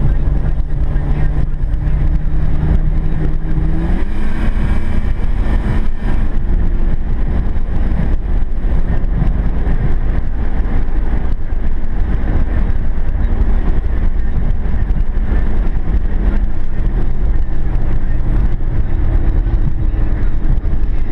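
Subaru Outback's 3.0-litre flat-six engine running, jumping up in pitch about four seconds in as it is accelerated, then running rougher before settling to a steadier, lower note near the end. The engine is one that the owner says misfires while accelerating.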